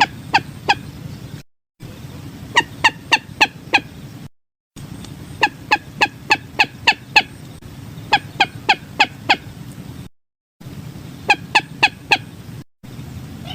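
Common moorhen calls: short downward-sliding notes repeated about four a second in bursts of three to eight, with abrupt dead-silent gaps between bursts, as in an edited, looped lure recording. A steady low rumble runs under the calls.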